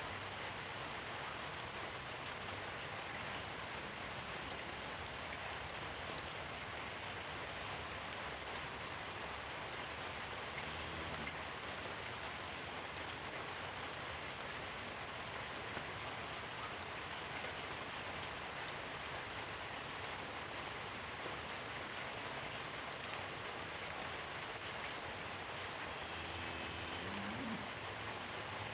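Steady tropical rain falling, with a continuous high insect drone behind it. Short chirps come in small groups every few seconds, and a few low croaks are heard.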